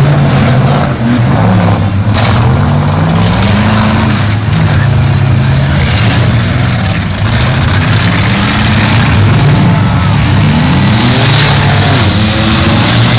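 Several demolition derby cars' engines running and revving up and down together. A couple of sharp bangs come through, about two seconds in and again around seven seconds.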